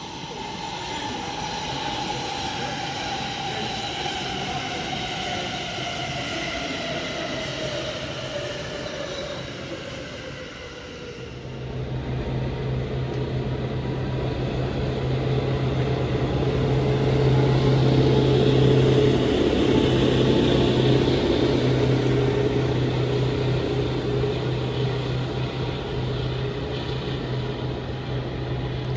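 Trains at a main-line station: an electric train's motor whine falls steadily in pitch over about ten seconds as it slows. About twelve seconds in, a heavier train sets in with a steady low drone and rumble that builds to its loudest a few seconds later and then eases slightly.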